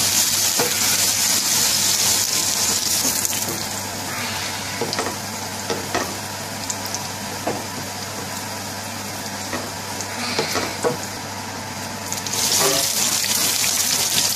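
Grated garlic sizzling in hot ghee in a frying pan: a steady frying hiss, with a few light knocks of a wooden spoon stirring against the pan. The hiss drops back through the middle and grows louder again near the end.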